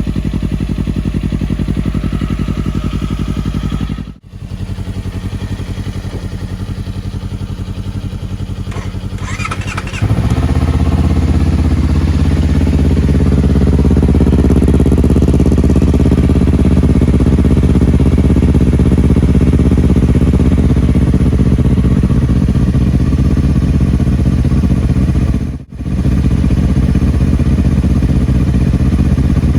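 250 cc sport motorcycle with an aftermarket muffler, running steadily. Brief breaks come at about 4 s and near the end. From about 10 s in it is louder and deeper.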